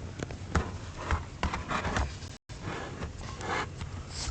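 Storm wind gusting against the microphone, a constant low rumble and hiss with irregular sharp knocks. The audio drops out completely for a split second near the middle.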